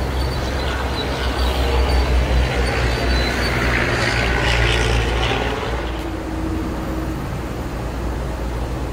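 Electric multiple-unit commuter train passing close by and pulling away: a steady low rumble of wheels on rail, with a rushing hiss that builds to a peak about four to five seconds in and then eases off.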